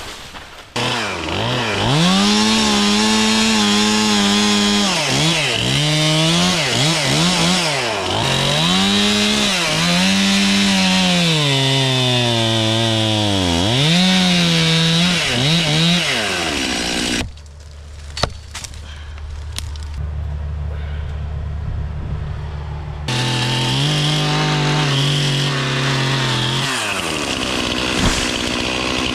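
Chainsaw running at high revs while cutting coconut palm, its pitch sagging and recovering again and again as the chain bogs down in the cut. About two-thirds of the way through it drops to a quieter, duller run for several seconds, then revs steadily again.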